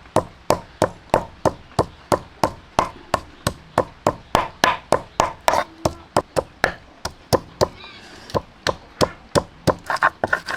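A knife chopping on a cutting board in a steady rhythm of about three strokes a second, with a brief pause about eight seconds in.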